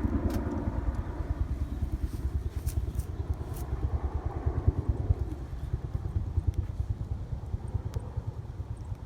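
A small fire of dry leaves and twigs catching in a mini fire pit, with a few sharp crackles over a steady low rumble.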